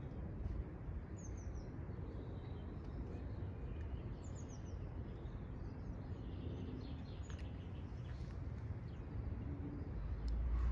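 Small birds chirping: two quick runs of falling high notes, about a second in and about four seconds in, with a few fainter calls after, over a steady low outdoor rumble.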